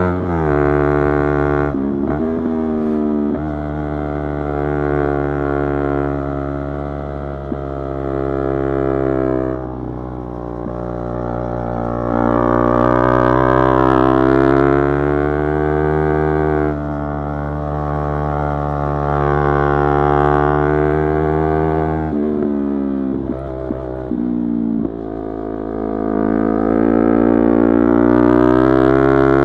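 Yamaha YZF-R3's 321 cc parallel-twin engine held at high revs under throttle, its note rising and falling. There are quick gear changes that briefly break the note near the start and again a little past twenty seconds.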